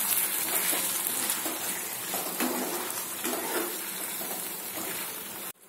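Mutton with tender tamarind leaves sizzling as it fries in oil in a pan while being stirred with a spatula, a steady hiss. The sizzle cuts off abruptly near the end.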